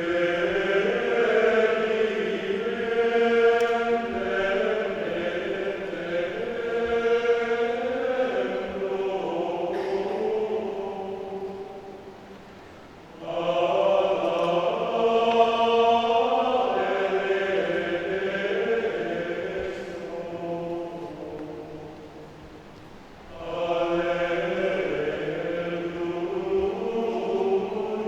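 Men's choir singing in long, sustained phrases. The sound drops back briefly between phrases, about 12 and 22 seconds in.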